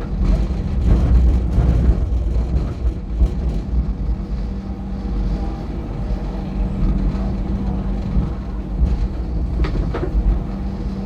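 Cabin running noise of an MTR Light Rail car: a steady low rumble of steel wheels on the track with a constant motor hum, and a single sharp click about ten seconds in.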